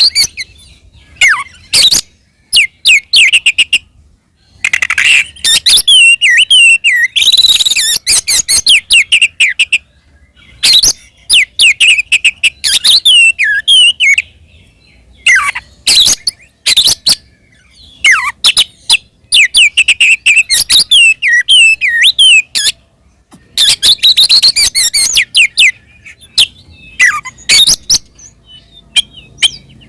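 Oriental magpie-robin (kacer) singing loudly in fast, varied phrases of sharp whistles, chatters and down-slurred notes, each phrase a few seconds long with short pauses between. It is the bird's aggressive 'fighting' song (gacor tarung), the kind used to provoke other magpie-robins into answering.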